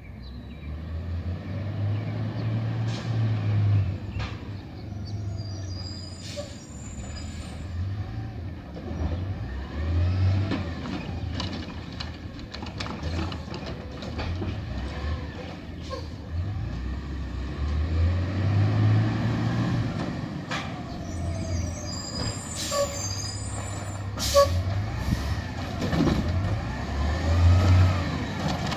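Garbage truck's diesel engine revving up and down over and over, with a whine that rises and falls along with it, and two sharp air hisses from the brakes or air system.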